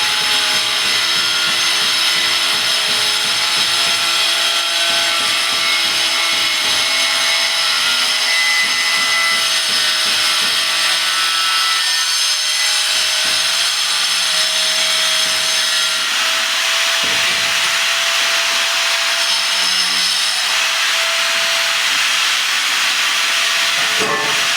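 Electric cutting tool running continuously with a steady whine and rasping noise, winding down in pitch just at the end as it is switched off.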